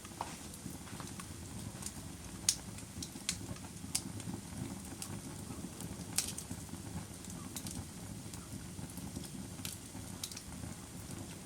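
Fire burning with a steady low rumble, broken by irregular sharp pops and crackles every second or so, several of them loud snaps.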